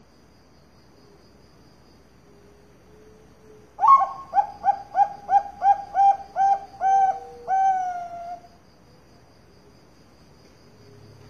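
Zebra dove (Bangkok-strain perkutut) singing one song phrase about four seconds in: a first note, then about ten quick, evenly spaced coos, the last one drawn out and falling. Together they last about four and a half seconds. A faint steady high-pitched ringing runs underneath.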